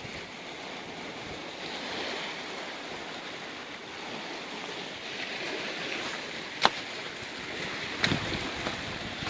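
Ocean waves washing steadily against a rocky shore, with wind. Two sharp clicks stand out, one about two-thirds of the way in (the loudest moment) and another just over a second later.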